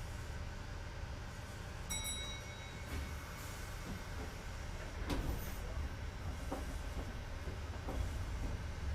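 Inside a Kintetsu 2430-series train standing with its doors just closed: a steady low rumble from the car's equipment, a short high-pitched tone about two seconds in, and a few sharp clicks and knocks later on, as the train readies to depart.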